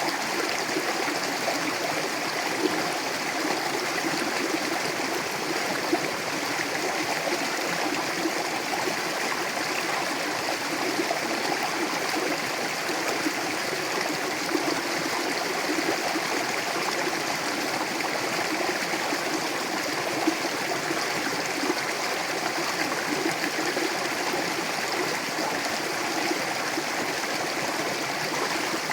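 Mountain river flowing over rocks: a steady rushing and gurgling of water, with small splashes now and then.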